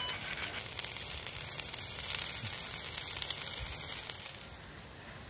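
Breakfast meat (sausages and bacon) sizzling and crackling in a frying pan, dropping quieter about four seconds in.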